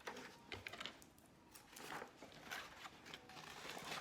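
Faint rustling and small taps of paper and tape being handled as a paper eye is stuck onto a tin can.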